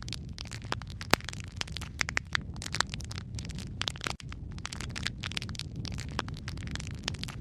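Logs burning in a fireplace, crackling and popping irregularly over a steady low rumble of the flames, with one sharper, louder pop about a second in. The sound cuts out for a split second just past the middle.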